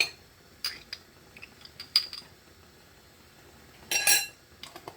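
Kitchen utensils and seasoning containers clinking and knocking as spices are handled: a few separate sharp taps, then a louder short clatter about four seconds in.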